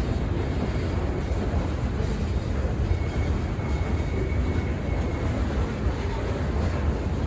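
Freight train rolling past, its railcar wheels making a steady low rumble.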